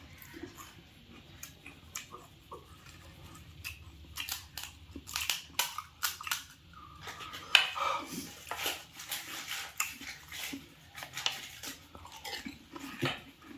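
A person eating pani puri up close: crisp hollow puri shells cracking and being chewed in irregular crunchy bites, with the sharpest snap about seven and a half seconds in.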